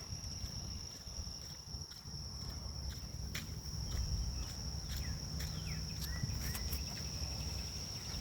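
Grass insects trilling in a steady high-pitched drone, with a bird giving a few short falling chirps a little past the middle, over a low rumble of wind and footsteps on the walk.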